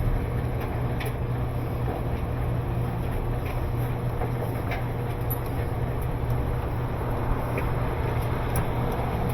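A steady low machine hum with a few faint ticks.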